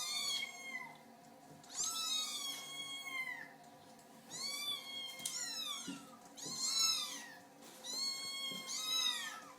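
Kittens mewing: a string of high, thin cries, each rising and then falling in pitch, some overlapping, with short pauses between them.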